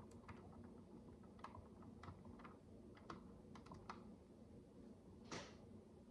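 Soft, irregular clicks of plastic micro bricks (miniature building bricks) being handled and pressed together, with a brief rustle about five seconds in.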